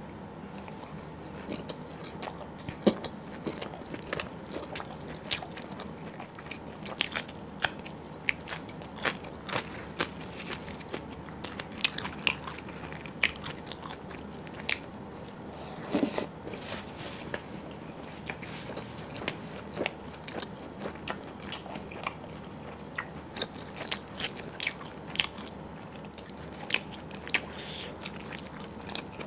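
Close-miked eating sounds: biting and chewing puri soaked in curry and chicken leg, with many short wet mouth clicks and smacks over a steady low background hiss.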